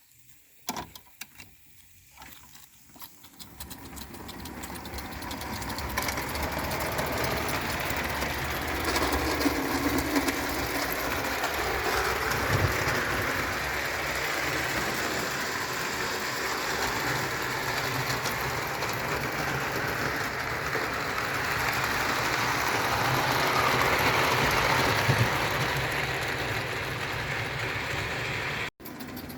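Bing tinplate 0 gauge toy steam locomotive running: a few light clicks, then a dense, steady mechanical rattle that builds up over the first few seconds and cuts off abruptly near the end.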